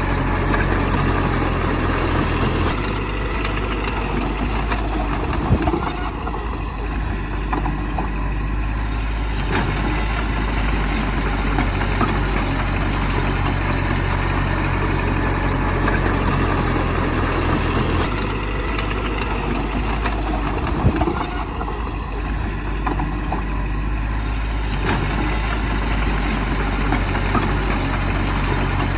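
Heavy diesel engine of earthmoving machinery running steadily. Its low note shifts about three seconds in and again about eighteen seconds in, and there is a single knock twice, about five and a half and twenty-one seconds in.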